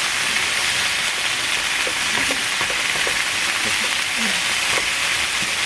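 Meat frying on a hot pan, a steady dense sizzle.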